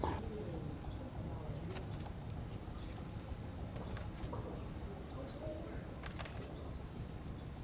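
An insect trilling steadily on one high pitch, over faint outdoor background with a few light clicks.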